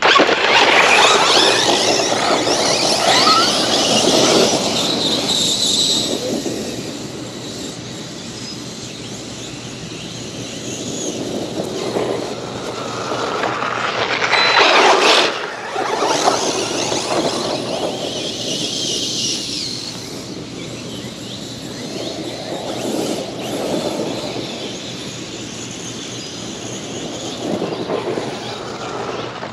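Large electric RC cars driving, the motor and drivetrain whine and tyre noise swelling and fading as they speed up, slow and pass.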